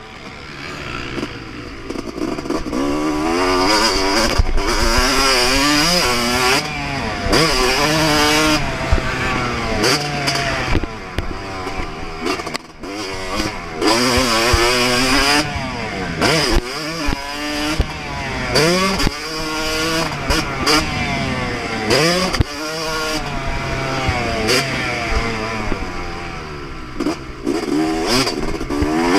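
2024 Yamaha YZ250 single-cylinder two-stroke motocross engine ridden at full throttle, revving up again and again and falling away between each run as the throttle is shut and opened.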